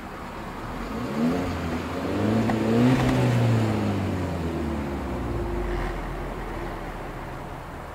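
A 2013 Volkswagen Golf's 1.4 TSI turbocharged four-cylinder engine revved while parked. The pitch climbs to a peak about three seconds in, then falls slowly back toward idle.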